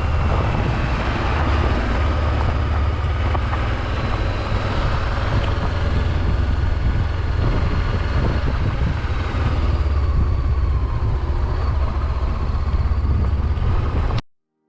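Honda CB500X parallel-twin motorcycle riding along, with heavy wind rush on the microphone over the engine and faint rises and falls in engine pitch. The sound cuts off abruptly near the end.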